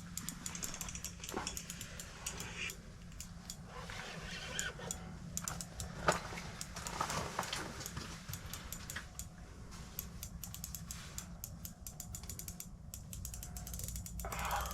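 Fishing reel clicking and ratcheting under load, fighting a big lake sturgeon: the reel being cranked and its drag giving line in uneven spells.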